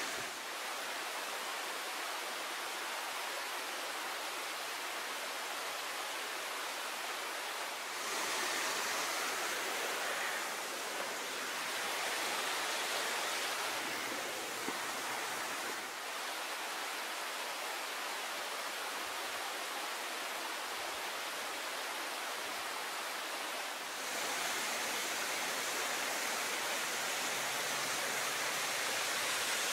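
Steady outdoor rushing hiss with no distinct events. It steps abruptly up or down in level every eight seconds or so.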